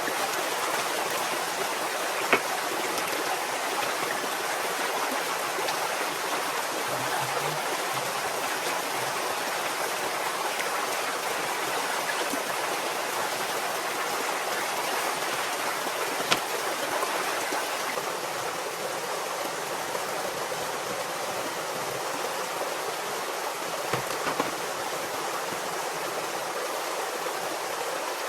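Steady rushing of running water, with a few sharp clicks about 2, 16 and 24 seconds in.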